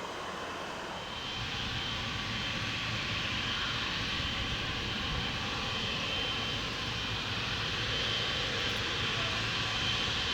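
Jet airliner's engines running, growing louder about a second in and then holding steady: a rumble with a thin high whine on top.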